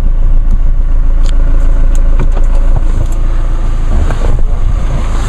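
2016 Chevrolet Colorado's 2.8-litre four-cylinder Duramax turbo-diesel idling with a steady low hum, with a few light clicks.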